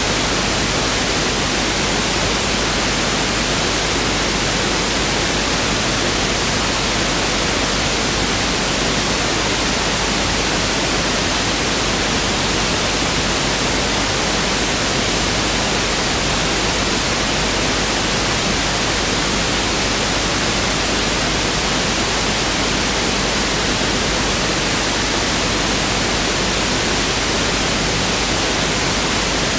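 Pink noise (1/f noise) test signal: a steady, even hiss that does not change.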